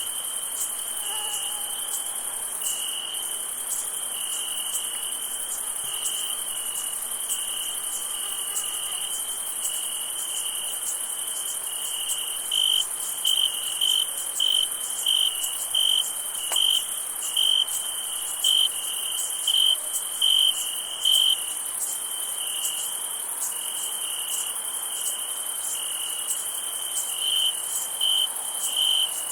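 A summer night chorus of crickets: a steady high trilling with a lower, pulsing chirp beneath it. From about twelve seconds in, a louder chirp repeats roughly once a second for several seconds, and it returns near the end.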